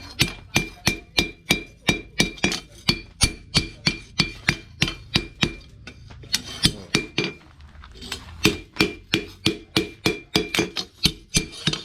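Hand hammer striking steel on an anvil in fast, regular blows, about three a second, each with a bright metallic ring. The steel is plausibly the chainsaw-bar blank being hammered into a cleaver blade. The blows pause briefly about two thirds of the way through, then resume.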